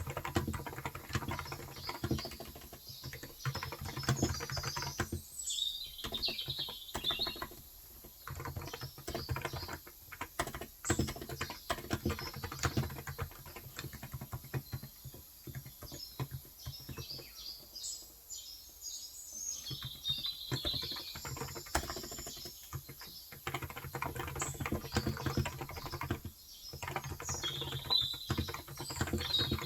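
Continuous fast typing on a Cox Endeavour electrostatic capacitive (35 g) tenkeyless keyboard, a dense run of soft key clicks broken by short pauses. Birds chirp in bursts now and then.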